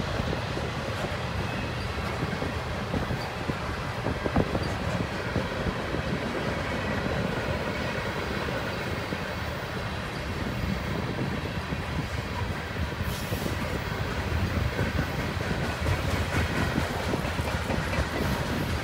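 Covered hopper cars of a freight train rolling past: a steady rumble of steel wheels on the rails.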